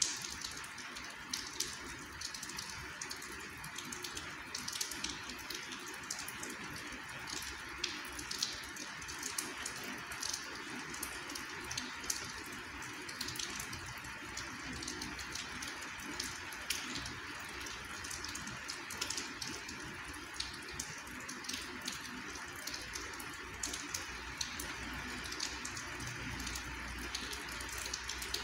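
Steady rain falling, with many close drops ticking irregularly over the even hiss.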